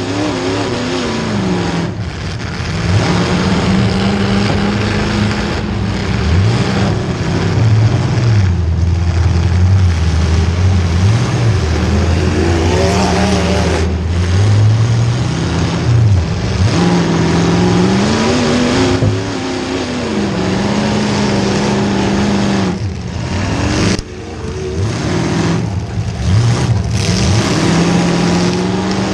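Demolition derby car's small-block Chevy V8 revving up and down over and over, with several sharp bangs of car-to-car impacts scattered through.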